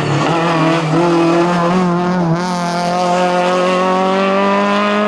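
Renault Clio RS rally car at full throttle on a hillclimb, its engine note held high and climbing slowly, with a short break about two seconds in. It drops away sharply at the end as the car goes past.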